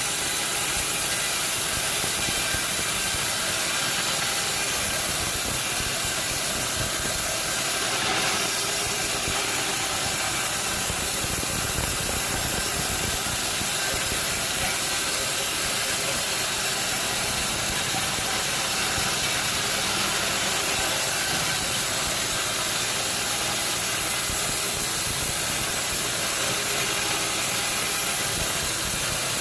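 Sawmill machinery running steadily, a constant mechanical noise with one brief click about eight seconds in.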